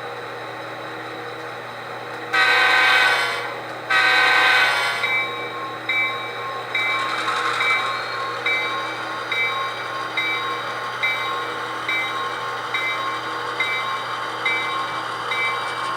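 Sound decoder of an HO scale GP38 model diesel locomotive: the diesel engine sound runs steadily, the horn gives two long blasts, the signal for pulling out, and then the bell rings about once a second as the train moves off.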